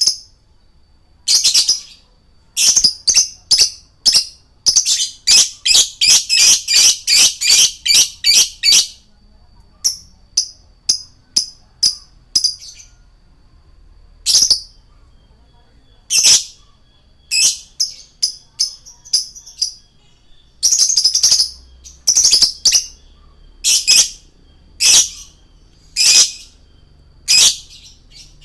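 Male lovebird calling: sharp, shrill, high-pitched chirps, a dense rapid run of them for the first several seconds, then single and paired chirps about once a second.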